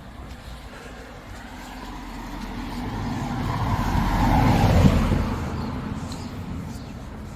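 A car passes close by: its noise builds to a peak about four to five seconds in, then drops in pitch and fades away.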